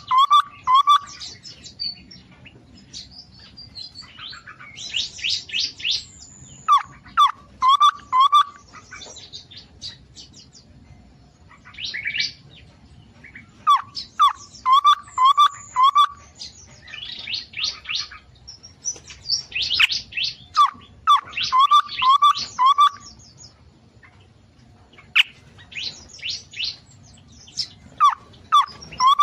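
Aviary songbirds singing in repeated phrases every few seconds: each a quick run of about five clear whistled notes over fast, high twittering chatter, with short pauses between phrases.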